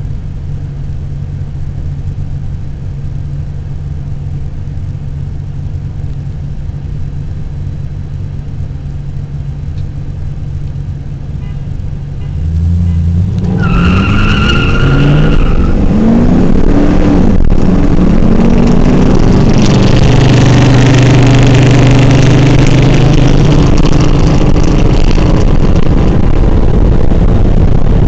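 A supercharged 2004 Chevrolet Impala SS and a Chevy 350 V8 pickup with headers and a cam idling side by side, then launching at full throttle about twelve seconds in, with a brief high squeal. The engines rev up and drop back in steps as they shift through the gears, running loud to the end.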